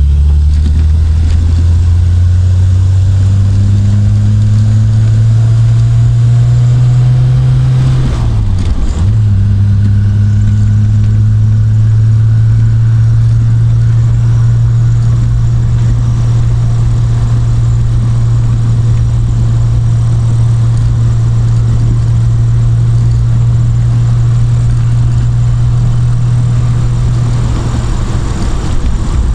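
Triumph Vitesse Mk2's 2-litre straight-six engine driving on the road: the engine note rises for about eight seconds, dips briefly, then holds steady at a cruise, and eases off near the end.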